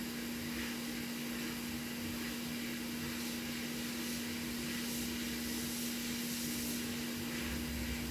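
Heat gun blowing hot air: a steady fan hiss with a constant low hum. It is heating the solder on a PS5's HDMI port until the port is loose enough to come off the board.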